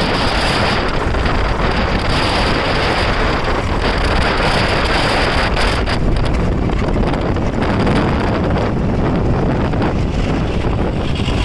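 Tractor engine running steadily, largely buried under loud wind noise buffeting the microphone.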